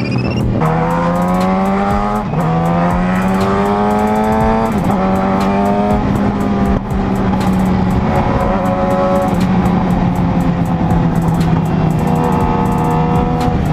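Motorcycle engine accelerating hard up through the gears, the revs climbing and dropping at each of about four upshifts in the first seven seconds, then holding at a steady cruising speed, with wind noise on the helmet camera.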